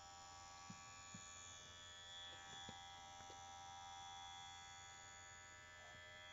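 Cordless electric grooming clipper with a massager head running steadily and faintly: a low, even motor hum made of many steady tones, with a few light clicks.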